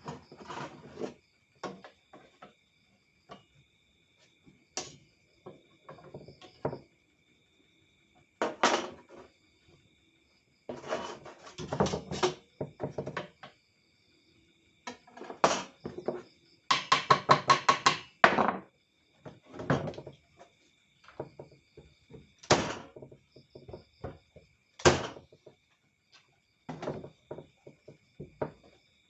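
Irregular hard knocks and clunks of wood and tools being handled, with a quick run of about a dozen taps a little past halfway. A faint steady high-pitched tone runs underneath. No motor is running.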